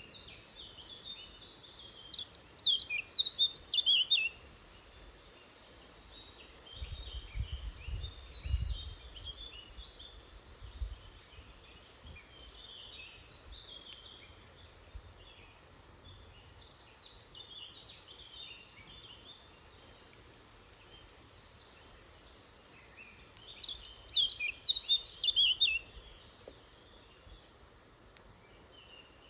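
Woodland songbirds singing and calling. A loud song phrase of about two seconds comes near the start and a matching phrase comes near the end, with softer chirps in between. A brief low rumble comes about a quarter of the way in.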